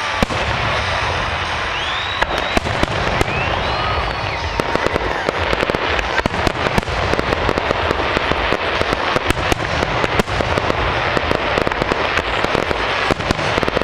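Aerial fireworks display: shell bursts going off in quick succession over a continuous low rumble, with dense crackling and popping that thickens about five seconds in.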